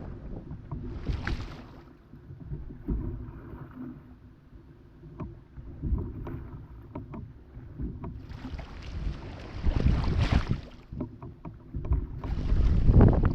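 Paddling a small inflatable raft: water splashing and sloshing around the paddle and hull in bursts, about a second in, again for a few seconds from about eight seconds, and near the end, with small knocks in between. Wind buffets the microphone with a steady low rumble.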